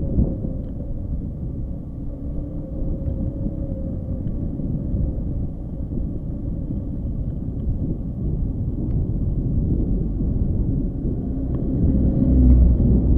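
Motorcycle engine running with a steady low rumble, mixed with wind buffeting the microphone; it grows louder about twelve seconds in.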